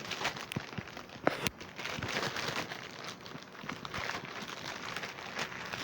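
Plastic packaging crinkling and rustling as a drum practice pad is unwrapped, with a few sharp clicks, the loudest about a second and a half in.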